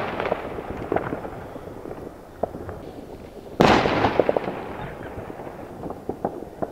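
New Year's Eve fireworks: scattered pops and crackles throughout, and a loud aerial shell burst about three and a half seconds in that dies away over a second or two.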